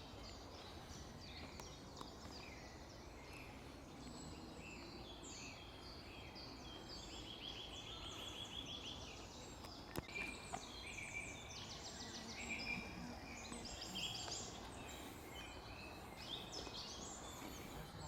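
Several small birds calling and singing at once, with high chirps and fast rattling trills that come thickest around the middle and again near the end. A single sharp click about ten seconds in.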